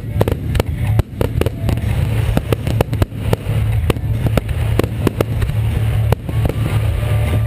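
Aerial fireworks display, with many shells bursting in quick, irregular succession: dense overlapping bangs over a continuous deep rumble.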